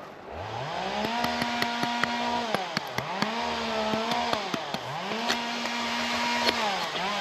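Two-stroke chainsaw revving up to full throttle, held in three long pulls that each sag briefly toward idle before climbing again, with sharp clicks over it.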